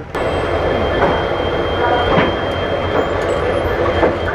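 Indian Railways passenger coach rolling into a station, heard from the open door: a steady rumble of wheels on rail with a thin high wheel squeal, and a few sharp clacks as the wheels cross rail joints.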